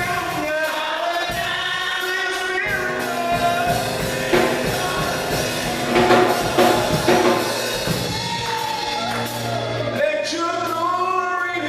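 Gospel choir singing with a live band. Bass notes come in a few seconds in, and drum hits follow.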